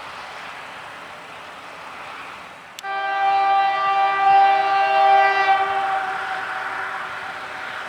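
CPKC freight locomotive's air horn sounding one long blast of several notes together, starting suddenly almost three seconds in and fading out over the next few seconds. A steady hiss runs underneath throughout.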